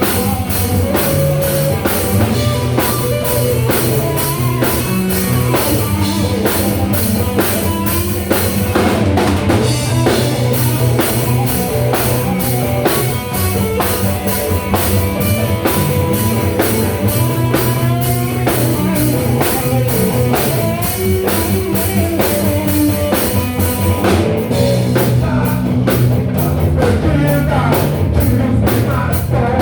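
Live rock band playing: drum kit, electric guitar and bass, with a steady beat and a fast run of drum hits near the end.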